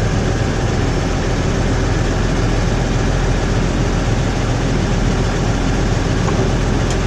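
New Holland 6080 tractor engine running steadily at a low, even speed.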